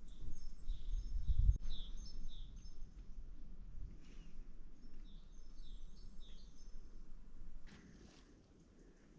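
Birds chirping: short repeated notes about every half second, in two runs with a brief pause between. A low rumble comes about a second and a half in, and a short rustle near the end.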